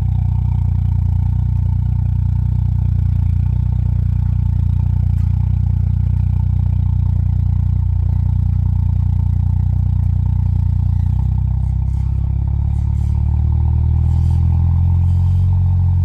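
Ford 2.3 EcoBoost four-cylinder idling steadily just after a cold start, at its raised cold high idle, through a custom exhaust of two Jones Full Boar performance mufflers with the center resonator deleted. The tone shifts slightly about eleven seconds in.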